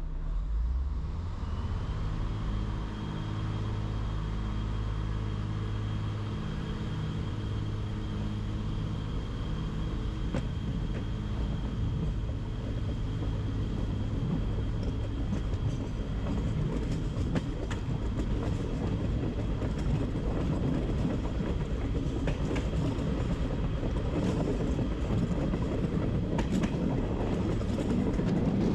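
A train running: a steady low hum with a thin high whine, and a rattle of wheels on the rails with scattered clicks that grows louder through the second half.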